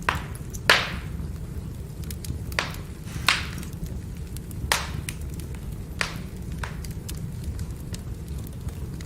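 Firewood burning, crackling: sharp pops every second or so, with fainter ticking over a steady low rumble of the flames.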